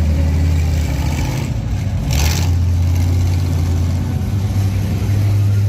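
Monster truck's Chevrolet V8 engine running steadily at low revs, its pitch stepping up about two seconds in and again near the end. A brief hiss sounds at the first step.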